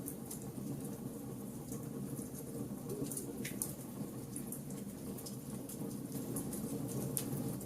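Wood fire burning: a steady low rush of flames with irregular sharp crackles and pops from the burning wood, a few louder snaps about three seconds in.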